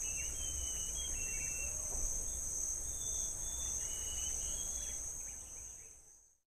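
A steady, high-pitched chorus of chirping crickets, with a few faint short bird calls over it. It fades out near the end.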